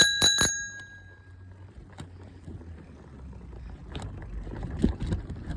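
Bicycle bell rung in a quick series, three rapid rings at the very start whose ringing dies away within about a second, then the bike rolling along with small rattles and clicks.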